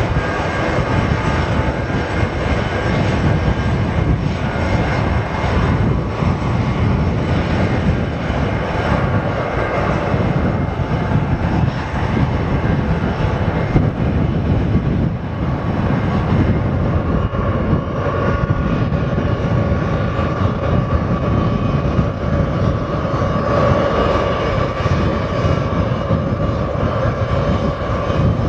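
Airliner engines running, a steady loud rumble and rush of noise; a whining tone comes up and strengthens a little past the middle.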